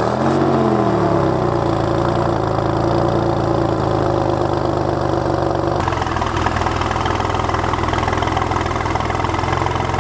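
Porsche 911 Turbo (993)'s air-cooled 3.6-litre twin-turbo flat-six just after starting: its pitch falls over the first two seconds as it settles into a steady, pretty loud idle.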